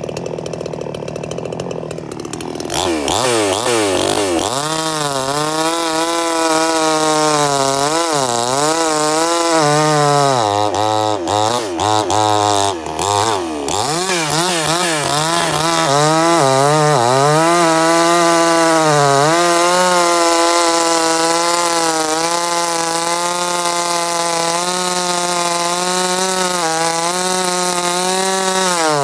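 Chainsaw running at high revs, cutting a log. Its engine note picks up about two and a half seconds in and wavers up and down as it works, with a few brief drops near the middle, then holds steady through the second half.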